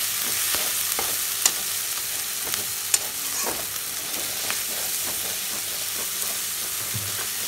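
Onion-tomato masala with dry spices sizzling in oil in a metal kadai, being fried (bhuna) while a slotted spatula stirs and scrapes it. A few sharp clicks of the spatula on the pan, the loudest about one and a half and three seconds in.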